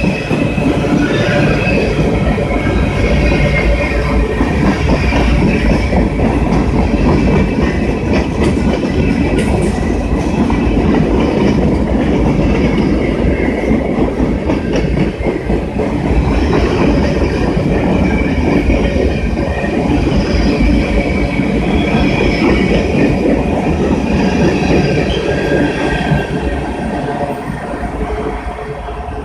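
A train rolling past close by: a loud, steady rumble of wheels on rail with high wheel squeal over it, easing off slightly near the end.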